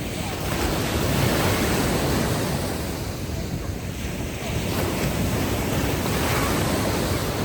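Ocean waves breaking and washing up a sandy beach in a steady surf wash. The sound swells twice, about a second in and again near the end.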